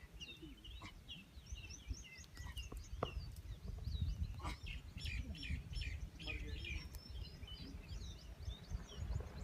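Small birds chirping, many short high chirps overlapping, over a low rumble, with a couple of sharp clicks about three and four and a half seconds in.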